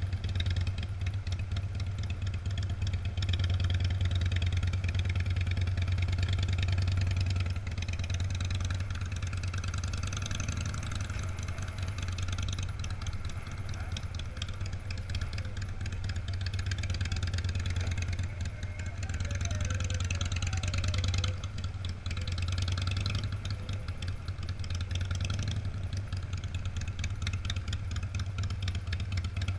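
Engines of classic cars and motorcycles running at low parade speed, a steady low engine drone throughout.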